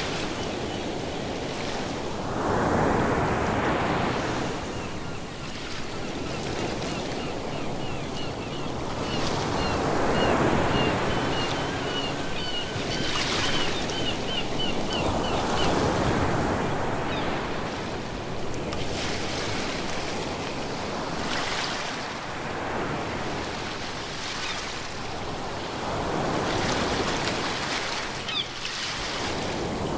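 Ocean waves breaking and washing in, swelling and easing every few seconds. A run of short, quick, high chirps sounds through the middle.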